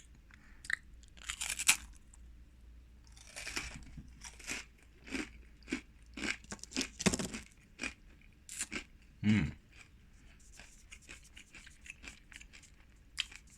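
Close-up crunching and chewing of a thick, hard black sesame cracker: irregular crisp crunches as it is bitten and chewed.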